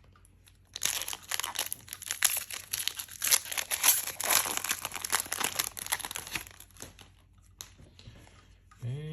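A trading-card booster pack's plastic wrapper being torn open and crinkled by hand: a dense crackling run for about six seconds, then a few lighter rustles.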